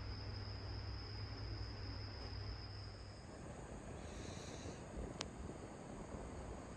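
Faint ambience: a steady high-pitched insect-like trill over a low hum, both stopping about three seconds in. Faint hiss follows, with one sharp click near the end.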